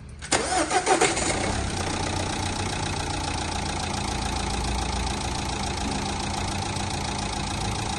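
Renault Fluence's 1.5 dCi diesel engine starts about a quarter second in and settles within a second into a steady idle with a fine, even clatter. It is being run to check oil pressure while chasing an oil warning light.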